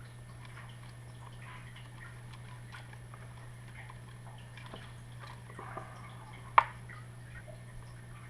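Faint clicks and rustling of hands handling the wiring and parts of an RC truck during a motor and speed-control swap, with one sharp click about six and a half seconds in, over a steady low hum.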